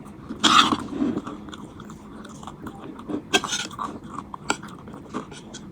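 A person eating chatpate, the Nepali spiced puffed-rice snack, close to the microphone: irregular crunchy bites and chewing, loudest about half a second in and again around three and a half seconds.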